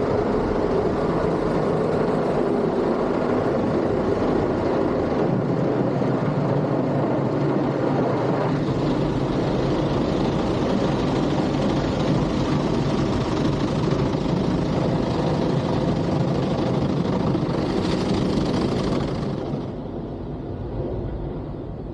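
Automatic car wash running: a loud, steady wash of machine and water noise that drops off sharply near the end.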